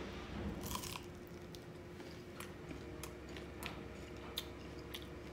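A person biting into a french fry about half a second in, then chewing close to the microphone, with scattered small mouth clicks.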